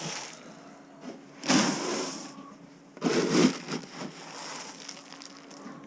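Two bursts of scraping, rustling noise, about a second and a half and three seconds in.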